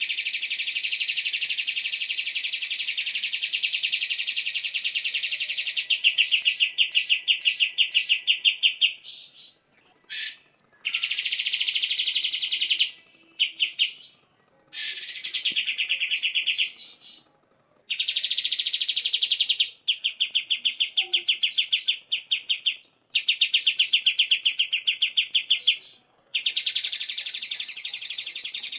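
White-rumped shama (murai batu) singing in long runs of very rapid, buzzy repeated notes. The phrases last from one to six seconds, are broken by short pauses, and carry a few quick upward-sweeping notes between them.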